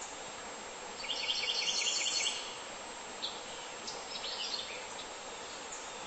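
A songbird sings a quick run of about seven repeated high notes lasting just over a second, then gives a few short chirps, over a steady outdoor hiss.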